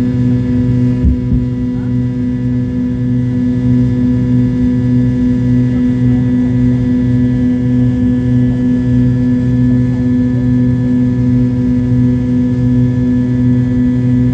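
McDonnell Douglas MD-83's rear-mounted Pratt & Whitney JT8D turbofans running steadily at low power: a loud hum made of several steady tones, with a slow throbbing pulse and no rise in pitch. A brief knock sounds about a second in.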